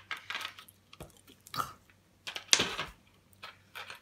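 A person chewing a novelty-flavoured jelly bean close to the microphone: irregular short wet mouth sounds, the loudest about two and a half seconds in.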